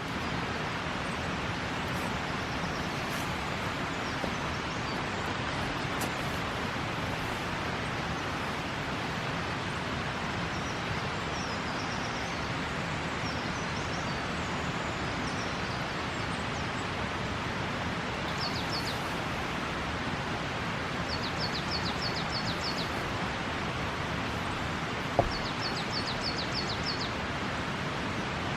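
Steady, even hiss of rain falling. Four short bursts of rapid, high bird chirps come in the second half, and a single sharp pop about 25 seconds in is a crackle from the wood fire.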